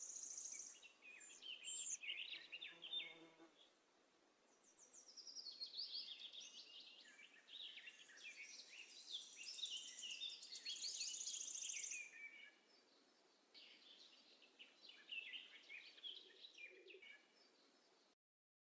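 Small birds chirping and singing, with quick trills and short falling whistles overlapping, faint; it cuts off suddenly near the end.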